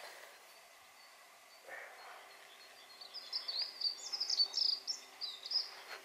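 A songbird singing a quick run of high, varied chirps for a couple of seconds, starting about halfway in. A soft rustle comes shortly before.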